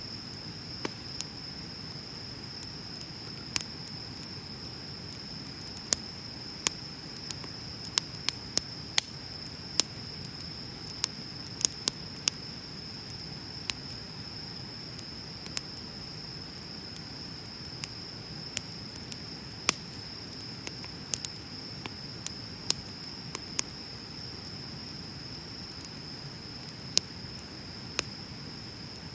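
Wood bonfire crackling, with sharp pops at irregular intervals, sometimes several close together, over the low hiss of the flames. A steady high-pitched insect trill runs underneath.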